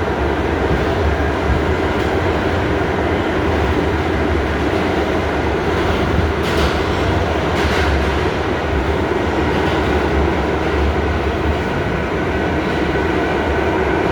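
An R68A New York City subway car heard from inside, running steadily on the track with a continuous low rumble from wheels and motors. A couple of faint rail clacks come about halfway through.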